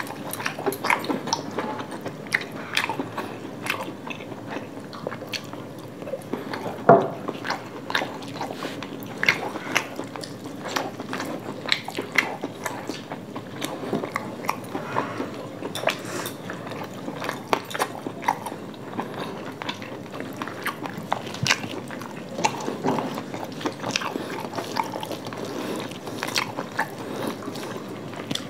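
Two people chewing mouthfuls of fried rice and chilli chicken, eaten by hand. Many short mouth clicks run throughout, with one sharper click about seven seconds in.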